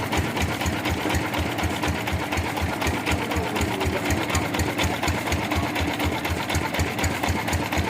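Sawmill machinery running with a steady rhythmic thump, about four beats a second, over a steady hum.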